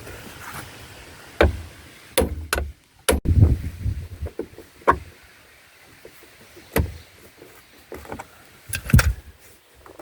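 Knocks and clunks of hand work on a car's interior fittings: about eight separate strikes, irregularly spaced a second or two apart.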